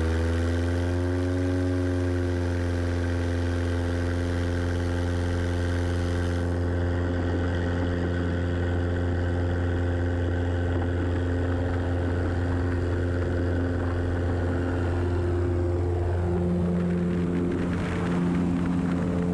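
Mooney single-engine airplane's piston engine and propeller droning steadily in flight. Its pitch rises slightly over the first second or two and then holds, and the tone shifts a few seconds before the end.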